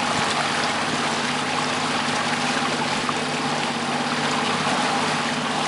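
A boat's outboard motor running steadily under way, a constant hum with an even wash of rushing water over it.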